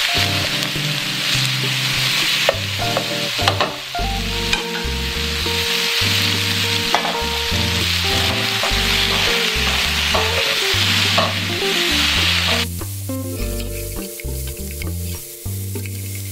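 Chicken strips frying in oil in an Anolon wok, a steady sizzle, as a spatula stirs them and now and then clicks and scrapes against the pan. The sizzle drops away sharply about three-quarters of the way through.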